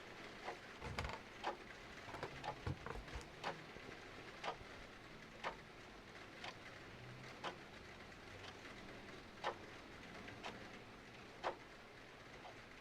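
A clock ticking about once a second over a steady hiss of rain, with a fireplace crackling and popping irregularly, most busily between one and three seconds in.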